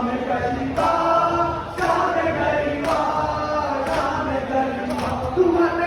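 A song with held, chant-like sung vocals over a steady beat that strikes about once a second.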